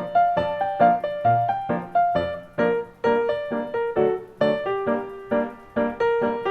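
Background piano music: a steady stream of single struck notes, several a second, each fading quickly.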